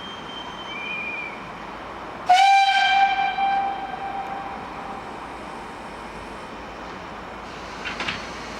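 Steam whistle of a Ty2 class 2-10-0 steam locomotive blown once for departure: a sudden loud, single-pitched blast a couple of seconds in that holds for about a second and then fades away over the next two. Two faint high whistle notes come just before it, near the start.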